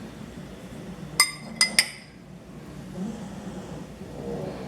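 A spoon clinking three times in quick succession against a small bowl, with a brief ringing tone, while cornstarch and water are put together for a slurry.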